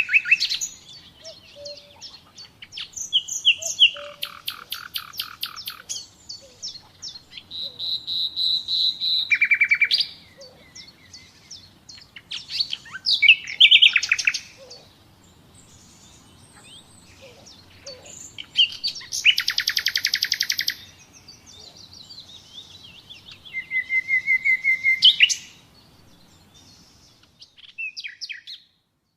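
Common nightingale singing: a string of separate phrases of rapid repeated notes and trills, one a steady whistle held for about a second, with short pauses between phrases.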